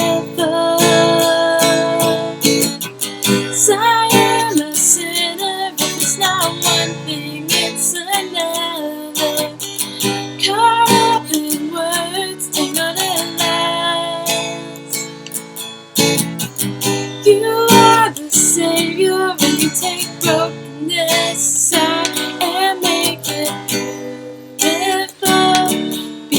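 Acoustic guitar strummed steadily, with a woman singing a slow song over it.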